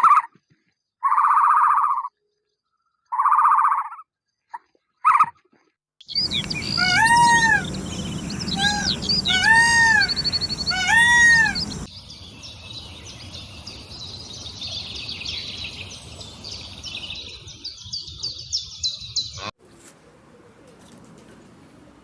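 A run of short animal-sound clips: two short buzzy calls, then birds whistling and chirping in repeated arching notes, then many small birds chattering together, which stops suddenly near the end.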